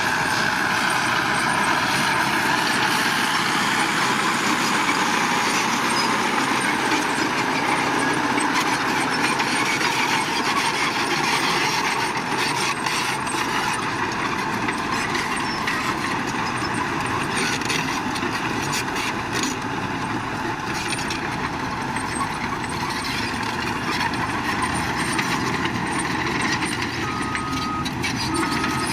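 Heavy construction machinery running steadily, engine noise with no pauses. Near the end a reversing alarm beeps about three times.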